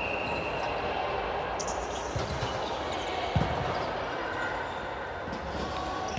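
Thumps of a volleyball being played in a gym, one sharp thump about three seconds in louder than the rest, over a steady hubbub of the hall.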